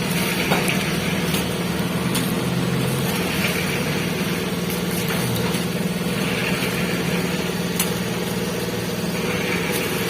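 A steady low machine hum like an engine running at idle, with a few faint light clicks.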